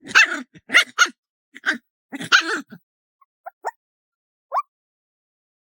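Small puppy barking in a quick series of short yaps, then a few brief, faint rising whines near the end.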